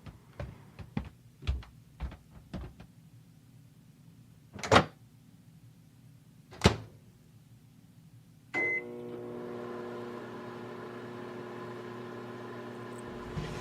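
A run of soft knocks, then two sharp clacks, then a short beep as a microwave oven starts. The microwave then runs with a steady hum through the last third.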